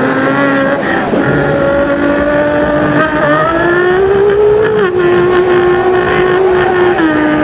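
A man imitating a car engine with his mouth: a loud, buzzing, engine-like drone held for several seconds. It steps up in pitch about three to four seconds in, then drops back near five seconds and again near the end.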